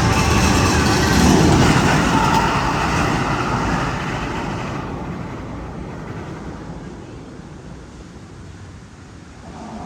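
A loud rushing rumble in the Magnum XL 200 roller coaster's tunnel, loudest about a second and a half in and fading away over the next several seconds. A new sound with steady tones begins right at the end.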